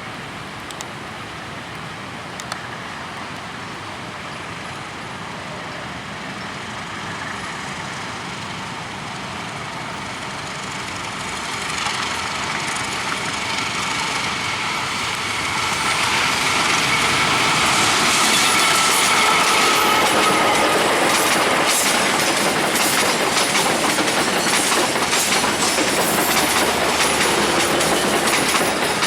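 A passenger train approaching and running past close by. Its sound builds through the first half and is loudest from about 16 seconds on. Once it is close, the wheels clatter rapidly over the rail joints, and a steady high whine is heard as it nears and passes.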